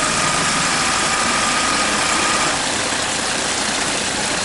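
Suzuki Samurai's engine running steadily at low revs, with a thin steady whine that fades out about halfway through.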